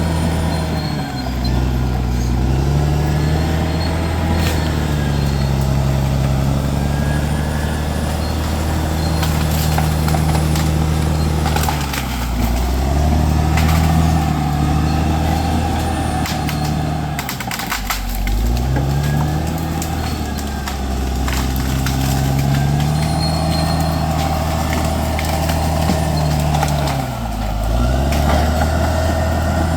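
Bulldozer's diesel engine running hard, its pitch sagging and picking back up about four times as it lugs under load.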